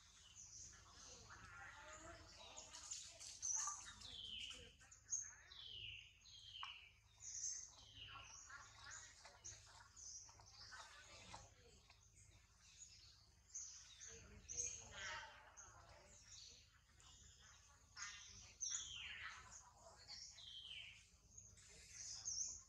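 Faint bird calls: many short high chirps and repeated short downward-sliding whistles, coming and going throughout.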